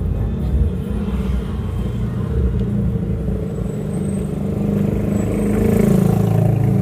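Motor vehicle travelling on the road: a steady low engine and road rumble that swells a little about five seconds in.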